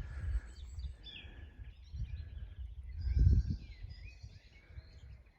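Small birds chirping and singing, over a low rumble that swells briefly about three seconds in.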